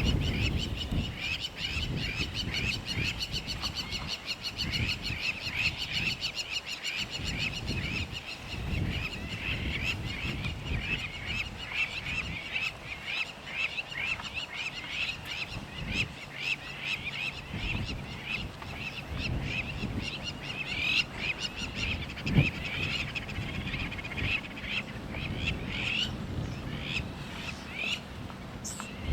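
Birds chirping rapidly and continuously, many calls a second, with gusts of wind rumbling on the microphone.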